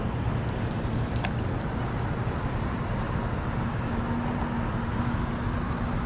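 Steady road-traffic rumble from the bridge overhead, with a faint even hum joining in about halfway through and a couple of small ticks a little over a second in.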